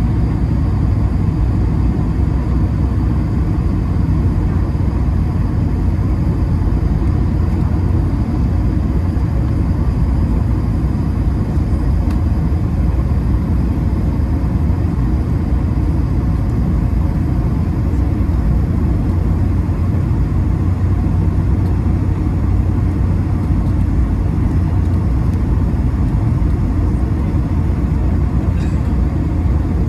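Steady cabin noise inside an Airbus A220-300: a loud, even low rumble with a few faint steady whining tones from its Pratt & Whitney PW1500G geared turbofans.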